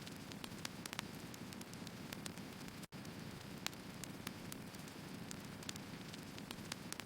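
Firewood burning in an open fire, with a steady low rushing hiss and irregular sharp crackles and small pops from the wood. The sound cuts out very briefly about three seconds in.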